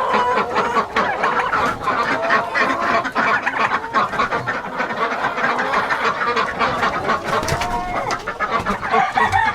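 A flock of chickens clucking continuously, with many quick clucks overlapping and several longer, drawn-out calls rising and falling in pitch.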